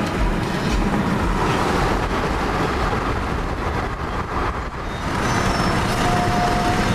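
Vehicle driving noise heard from inside the car: a steady rumble of engine and road noise as the car moves off.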